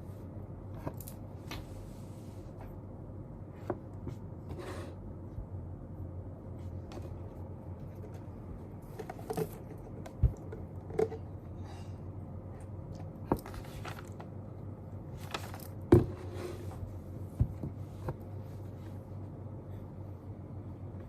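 Small desk sounds of someone studying: scattered taps, clicks and brief rustles over a steady low background noise. The sharpest tap comes about two-thirds of the way through.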